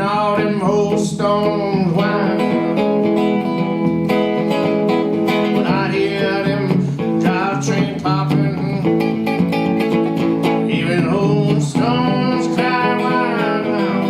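Solo blues guitar played live, plucked and strummed.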